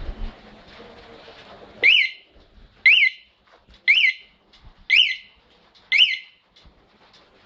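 Electronic sound-effect unit fitted to a Suzuki Thunder motorcycle, sounding a whistle-like chirp five times about once a second, each chirp a quick rise and fall in pitch.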